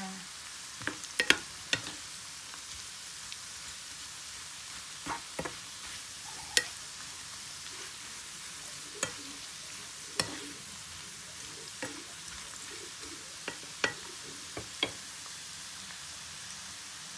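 Small salted dried anchovies frying in hot oil in a pan, stirred with a spoon: a steady sizzle with scattered sharp clicks and pops.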